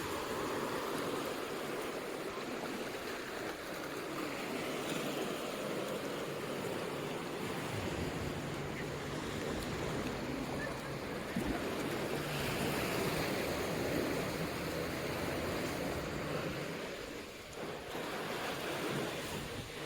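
Ocean surf washing ashore on a beach, a steady rush of waves that eases briefly near the end.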